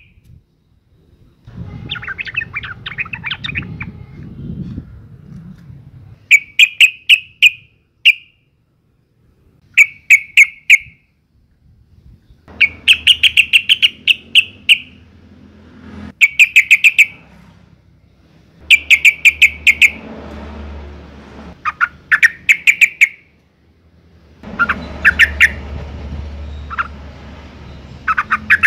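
Female yellow-vented bulbul (trucukan) calling: short bursts of rapid, chattering notes, each about a second long, repeated every two to three seconds. It is the breeding-season call of a female, used to lure males into answering.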